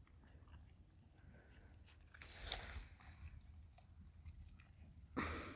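An old Maremma sheepdog chewing and tearing at tall grass: faint, irregular crunching and crackling, with a brief louder rustle a little over two seconds in and another near the end.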